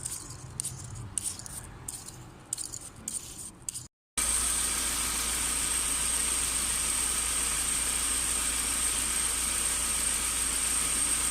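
UAZ-2206 van's engine running. For about four seconds it is quieter, with irregular clicks and ticks. After a sudden cut it is louder and steady, with a constant high-pitched whine over the low engine sound.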